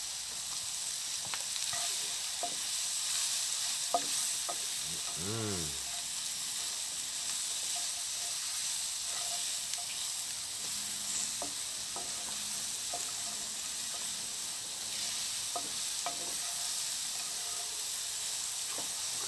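Mushrooms and spicy pepperoni frying in a pan over a charcoal fire, sizzling steadily with a high hiss. A spatula scrapes and clicks against the pan as they are stirred.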